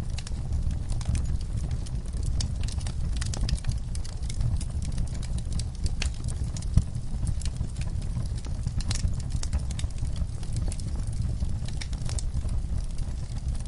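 Wood fire burning in a fireplace: irregular crackles and sharp pops over a steady low rumble, with one louder pop about seven seconds in.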